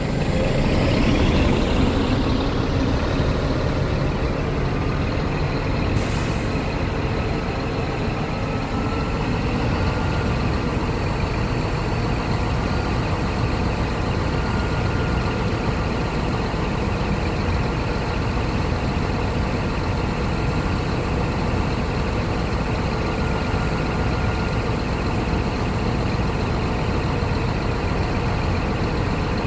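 Scania R480 truck's diesel engine, louder for the first couple of seconds and then settling to a steady idle. A short hiss of air release, typical of the truck's air brake system, about six seconds in.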